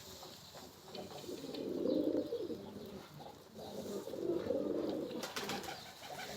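Domestic pigeons cooing: low, drawn-out coos about two seconds in and again around four to five seconds, with a few faint clicks in between.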